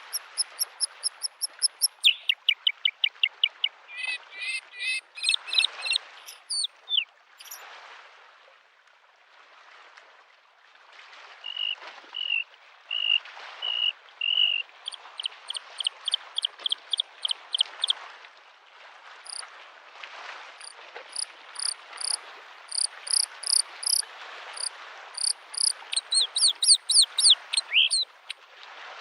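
Bluethroat singing a varied song: quick runs of repeated high notes, buzzy trills and short sharp whistles, with a pause of a few seconds about a third of the way in. Underneath is a steady wash of lake waves on the shore.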